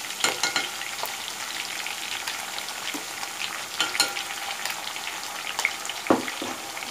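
Onion paste and ginger-garlic paste frying in hot oil in a wok: a steady sizzle with crackles, and a few sharp clicks as the spoon knocks against the pan while the paste is spooned in.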